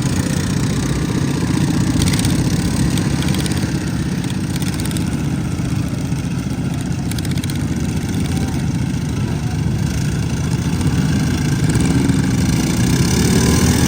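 Several racing lawn mower engines running steadily at low speed together.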